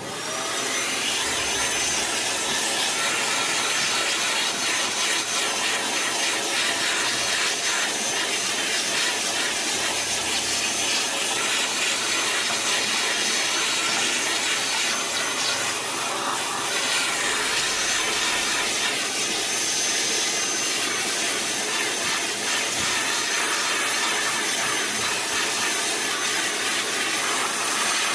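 A motor-driven air-blowing tool switched on suddenly and running steadily with a rushing sound and a faint high whine, of the kind used to blow dust out of an old TV during cleaning.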